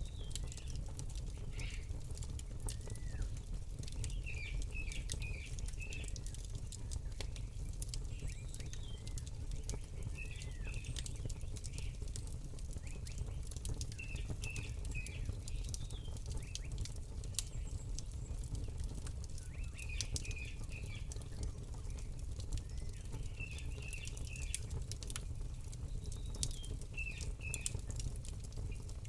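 Campfire crackling with frequent sharp little pops over a low steady rush, while a bird repeats a short chirping phrase every few seconds.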